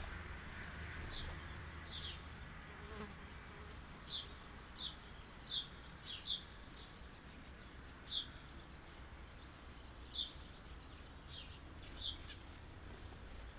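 Small bird peeping: about ten short, high chirps, each falling quickly in pitch, at irregular intervals over a low background hum.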